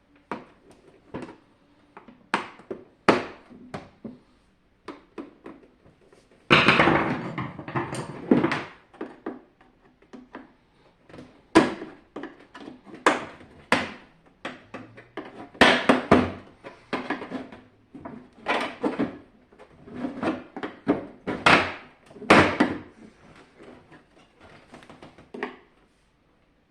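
Parts of a SilverCrest SLE 450 A1 dehumidifier being handled during disassembly: irregular clicks, knocks and scrapes, with a longer rattling scrape about seven seconds in.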